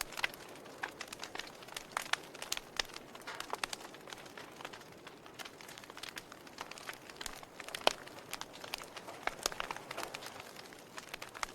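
Log fire crackling: irregular sharp pops and snaps over a soft, steady hiss of burning wood, with one louder pop about eight seconds in.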